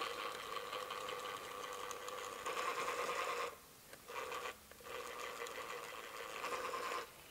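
Small electric motor of a battery-powered cartridge gun running steadily with a whine while pressing out construction adhesive. It pauses twice briefly a little past halfway and stops shortly before the end.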